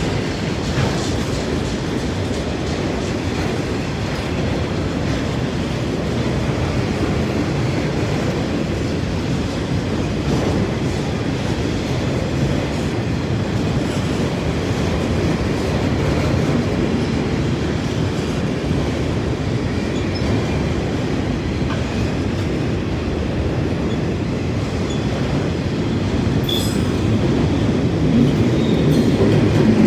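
A long freight train's cars rolling past at speed: a steady rumble and clatter of steel wheels on the rail, growing louder near the end.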